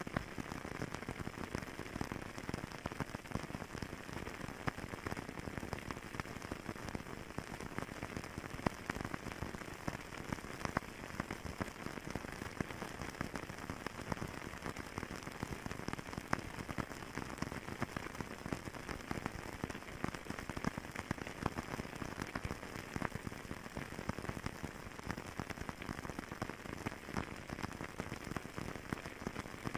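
Fireplace fire crackling: a steady hiss dense with many small pops and ticks.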